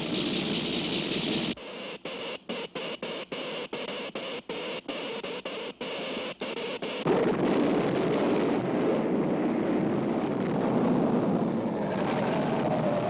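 Cartoon sound effects of an electric earthquake machine: a hissing buzz that stutters on and off in quick, uneven pulses. About seven seconds in, it gives way to a louder, steady, deep rumbling noise, the earthquake it sets off.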